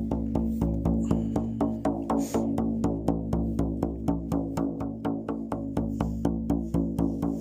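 Shaman's frame drum (buben) beaten in a steady, even rhythm, about four to five strokes a second, its low booming tone ringing on between strokes.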